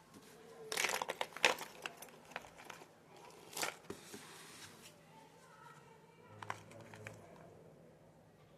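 Plastic snack-packet wrapper crinkling as it is handled and opened, in bursts that are loudest in the first couple of seconds, with a shorter burst in the middle and fainter rustles after.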